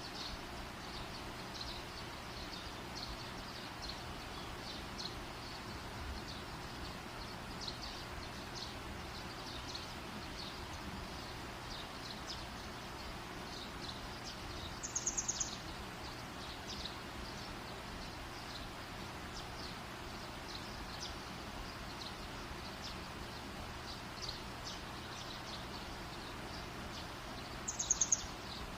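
Outdoor campfire ambience: a steady hiss with many small, high, scattered ticks or chirps. Twice, about halfway through and near the end, a bird gives a short, rapid, high-pitched trill, the loudest sound here.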